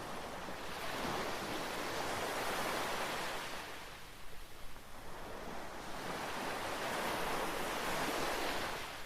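Atlantic surf breaking and washing up a sandy beach: two swells of wave noise, one building about a second in and easing off, the next building again about six seconds in.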